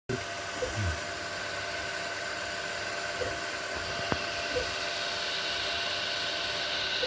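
Anycubic Kobra 3 3D printer running: a steady whine and hum from its fans and stepper motors, with a few short chirps as the head moves and a single click about four seconds in.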